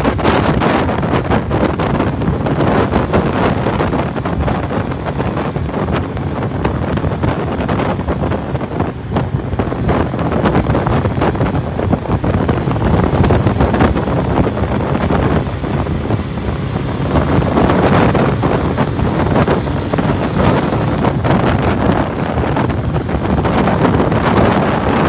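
Wind buffeting the microphone over a Suzuki 150cc motorcycle running at motorway speed, a steady loud rushing with the engine buried beneath it.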